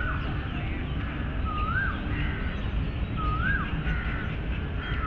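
A bird repeating a single rising whistled call about every one and a half to two seconds, over a steady low rumble of background noise.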